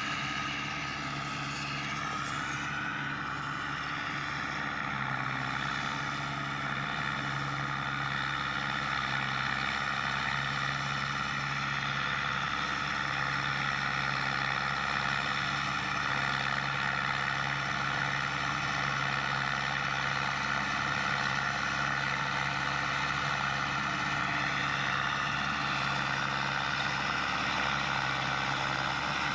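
Mahindra Arjun Novo 605 DI-MS 4WD tractor's four-cylinder diesel engine running steadily. Its pitch wavers in the first few seconds, then holds level.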